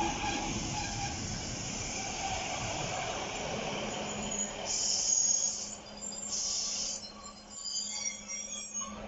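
A train running past on the line, a steady rumble with hissing, and short high-pitched squeals in the last few seconds.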